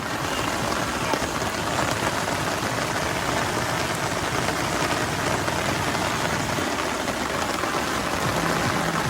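Heavy thunderstorm rain falling steadily, a dense hiss of drops.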